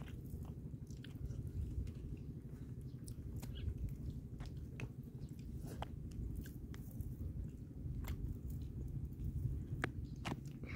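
Someone eating shellfish: chewing, with scattered small crunches and clicks of shell being picked apart. A steady low rumble runs underneath.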